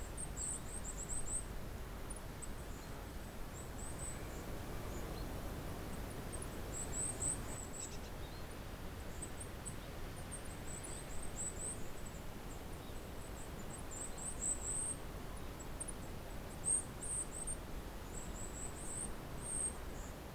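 A flock of goldcrests calling: very high, thin, short notes in quick clusters every second or two, over a faint steady background hiss.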